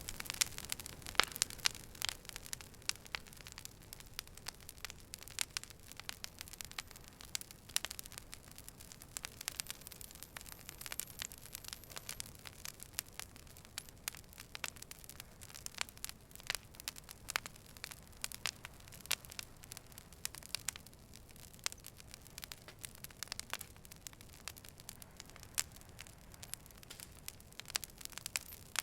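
Fire burning with irregular sharp crackles and pops over a low, steady hiss.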